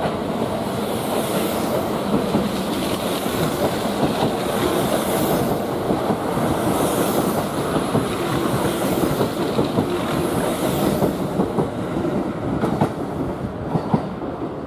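Kintetsu 50000 series Shimakaze limited-express electric train running slowly through the station: a steady rumble with wheels clattering over the rail joints and a high wheel squeal that comes and goes. It eases off near the end as the last car passes.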